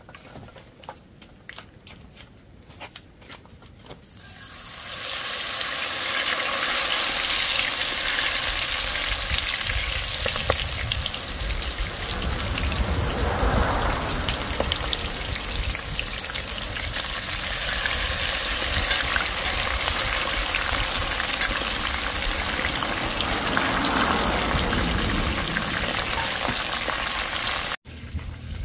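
Lobster pieces deep-frying in a pot of hot oil: faint crackling for the first few seconds, then loud, steady sizzling and bubbling that starts about four seconds in as the lobster goes into the oil. The sizzling cuts off abruptly just before the end.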